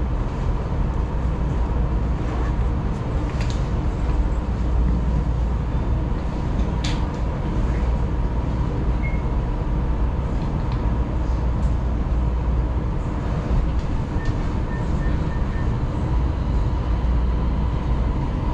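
Taiwan Railways local electric train running at a steady pace: a constant low rumble of wheels on rail with a steady hum over it and a few sharp clicks.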